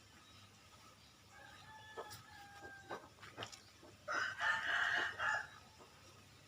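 A rooster crowing once, a call of about a second and a half starting about four seconds in, the loudest sound here. Before it come short steady whistled notes and scattered chirps from other birds.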